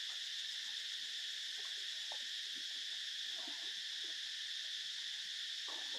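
Steady, unbroken high-pitched insect chorus, with a few faint short sounds lower down.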